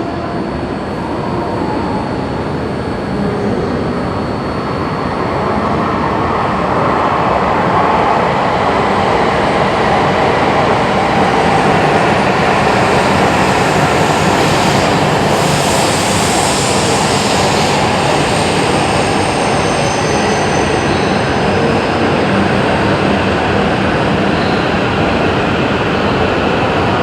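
Shinkansen bullet train running through the platform: a steady rush of wheels and air that grows louder over roughly the first ten seconds, then holds.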